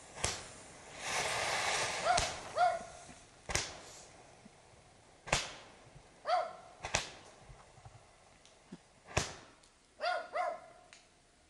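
Fireworks going off: a string of about ten sharp bangs and pops, irregularly spaced, with a rushing hiss about a second in.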